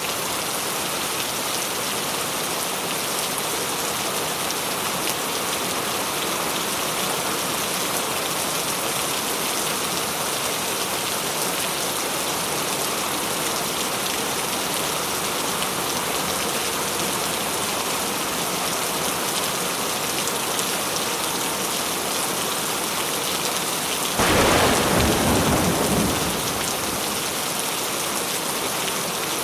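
Steady rain falling on a surface, an even hiss throughout. About three-quarters of the way through, a sudden loud clap of thunder rumbles for about two seconds and fades.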